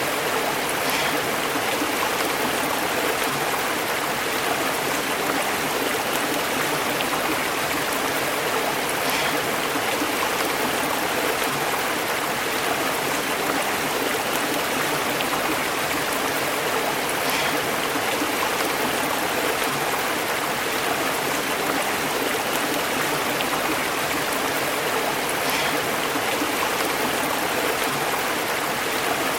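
A stream flowing over rocks, a steady, even rush of burbling water.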